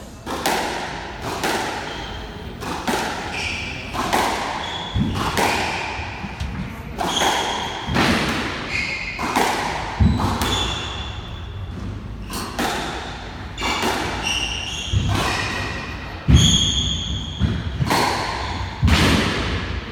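Squash rally: the ball struck by racquets and smacking off the court walls about once a second, each hit echoing in the enclosed court, with short squeaks between the hits.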